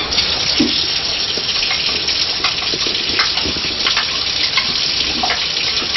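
Kitchen tap running, water pouring steadily into a pot, with a few light knocks.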